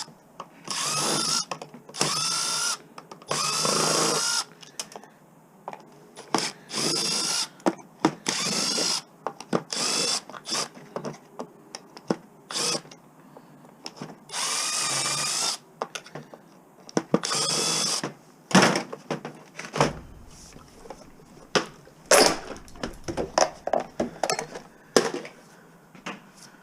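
Power drill driver run in repeated short bursts of about a second each, its motor whine rising as it spins up, backing out screws to take an appliance apart. In the last third, sharp clicks and knocks of metal parts being handled.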